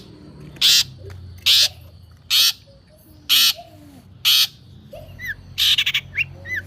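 A one-month-old long-tailed shrike (cendet) chick calling with harsh, rasping squawks about once a second. About five seconds in they come faster, mixed with thin rising chirps.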